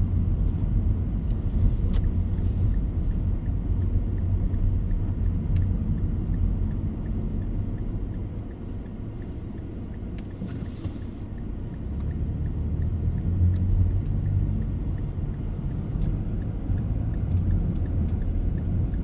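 Car driving on a snowy road: a steady low rumble of engine and tyres that grows softer for a few seconds mid-way and then builds again.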